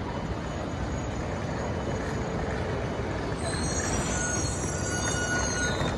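E4 series MAX Shinkansen running slowly along the platform with a steady rumble; a little past halfway a thin high-pitched squeal of the train sets in and holds to the end.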